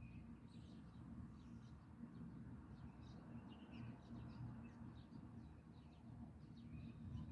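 Small birds chirping faintly, many short scattered chirps overlapping, over a steady low hum.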